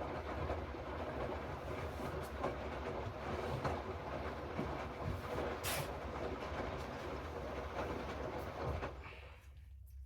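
Hoover 8 Pulse washing machine running its drum: a steady rumble with a low hum and scattered clicks, which dies away about nine seconds in as the drum stops.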